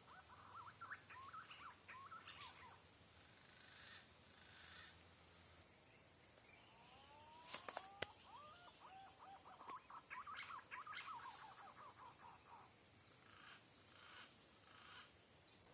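Green pigeons (punai) giving faint whistled calls: rising, wavering whistles in two bouts, the first at the start and a longer one from about 6 to 12 seconds in. A steady high insect drone runs underneath, with a couple of sharp clicks near the middle.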